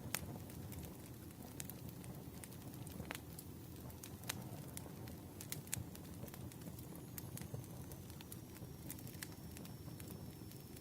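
Campfire burning, with a steady low rumble and scattered sharp crackles and pops from the wood at irregular intervals.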